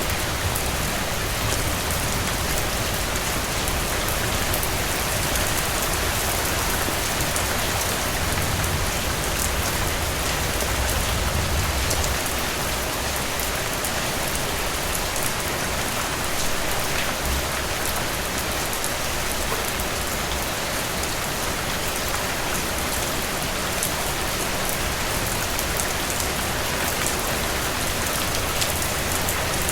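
Steady rain falling on a cabin roof: an even hiss speckled with the ticks of single drops. A low rumble swells and fades about a third of the way through.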